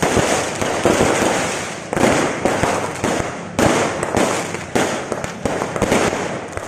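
Fireworks and firecrackers exploding one after another: a dense crackle of small sharp pops with louder bangs about once a second.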